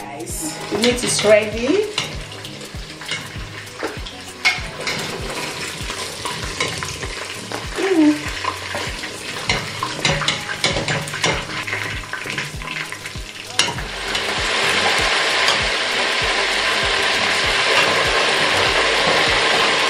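Fish frying in a deep stainless-steel pot of hot oil, sizzling, with a slotted metal spoon clicking and scraping against the pot as the pieces are turned. About fourteen seconds in the sizzle turns louder and steady.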